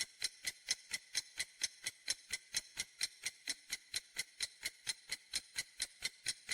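Countdown-timer ticking sound effect: evenly spaced clock-like ticks, about four a second.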